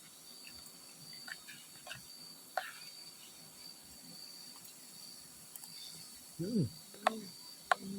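Steady high-pitched trill of crickets in the forest at night. A few sharp clicks come over it, and a short hum of a voice rises and falls about six and a half seconds in.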